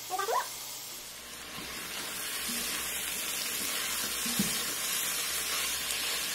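Cubed butternut squash and bacon sizzling in an Instant Pot's stainless steel inner pot while being stirred with a plastic spatula. The sizzle swells after about a second, with a few light knocks of the spatula against the pot.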